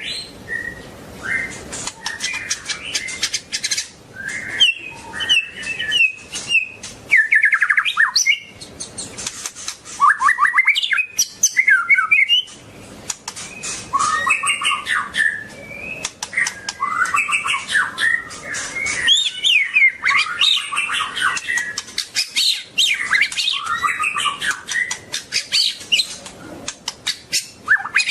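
White-rumped shama (murai batu) singing a long run of rapid, varied whistled phrases that slide up and down, mixed with many sharp clicks.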